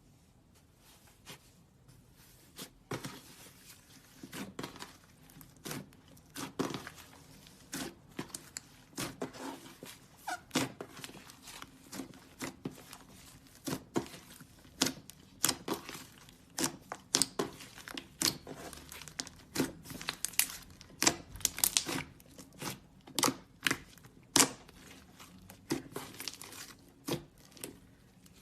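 Hands working clay slime, giving a run of sharp crackles and pops. There are only a few at first, then several a second.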